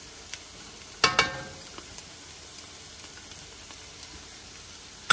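Onion, carrot and celery sizzling steadily in a cast-iron skillet. About a second in, a metal spatula clanks against the pan with a short ring.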